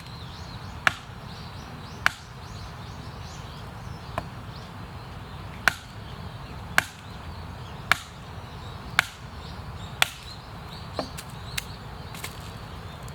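Wood being chopped or split, with sharp single blows about once a second. Near the end come a few lighter, quicker knocks.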